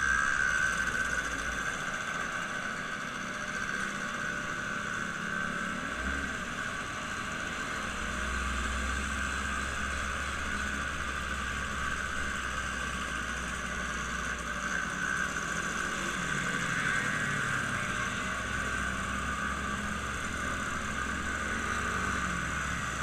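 Motor vehicle running steadily: a continuous engine and travel noise with a low hum that swells and fades.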